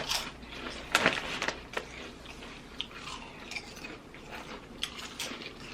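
Potato chips crunching as they are bitten and chewed, with a loud crunch about a second in and smaller scattered crunches after.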